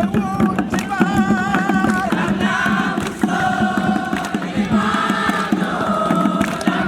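A group of voices singing together in chorus over a dense, steady rhythmic beat.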